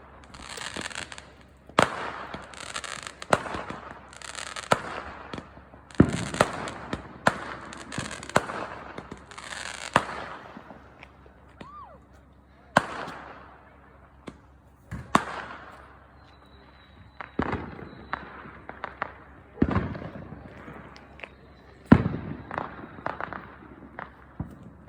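New Year's fireworks going off: a string of sharp bangs, several with a trailing echo, with hissing, crackling stretches between them in the first ten seconds, then more scattered bangs.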